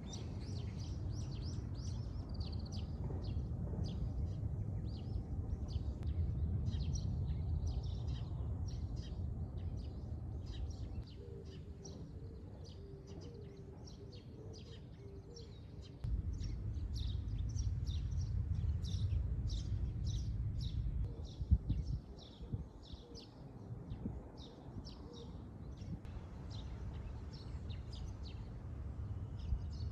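Small birds chirping in quick short calls over a low outdoor rumble. The rumble drops away for a few seconds in the middle, and there is one brief knock about three-quarters of the way through.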